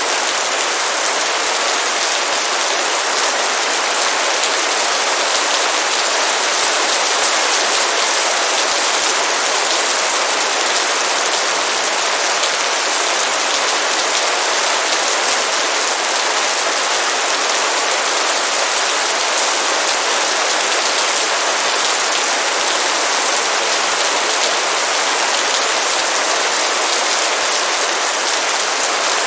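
Heavy rain pouring steadily, a dense even hiss of many drops on surfaces.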